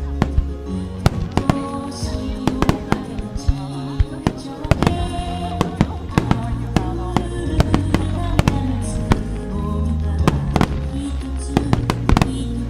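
Aerial firework shells bursting in a rapid, irregular string of sharp bangs, fired in time with a song playing loudly over the display's sound system.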